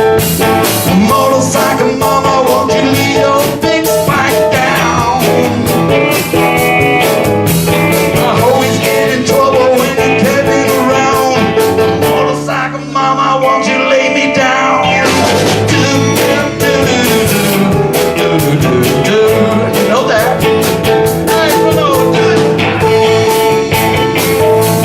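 Rock band playing live, with guitars, drums and singing. The drums drop out for about two seconds halfway through, leaving held chords, then come back in.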